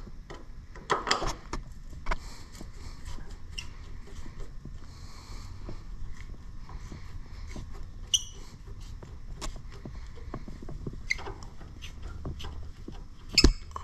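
Hand work on the nuts of a garden tractor's tail-light mounting bolts: scattered small metal clicks and scrapes, a brief squeak about eight seconds in, and a sharp click near the end, as the bolts spin with the nuts instead of coming loose.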